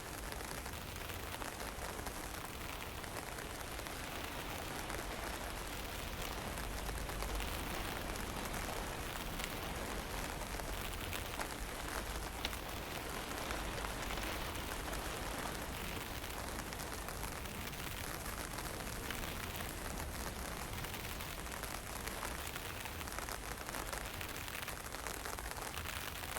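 Wind and fine misty drizzle at night: a steady, even hiss of rain with a low rumble of wind on the microphone.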